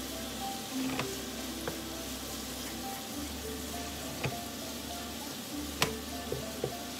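Beef and mushrooms sizzling in a frying pan as they are stirred with a wooden spatula, with a few sharp knocks of the spatula against the pan.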